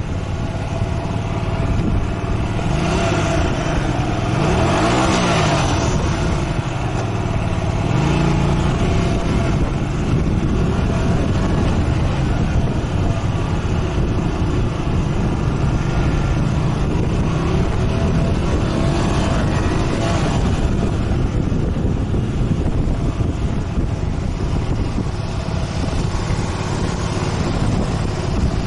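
Motorcycle engine running under way, its pitch rising and falling about five seconds in and again near twenty seconds as the throttle changes.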